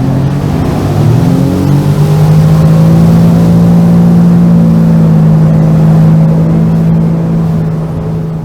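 Sea-Doo personal watercraft engine revving up over the first couple of seconds, then running steadily at speed, easing off near the end.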